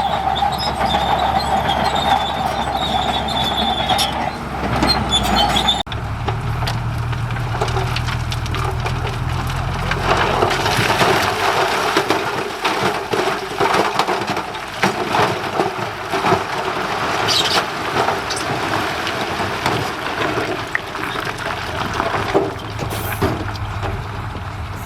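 Heavy earthmoving machinery at work. A steady high squeal runs for the first few seconds, then after an abrupt change about six seconds in comes a low engine drone with clanking and rattling.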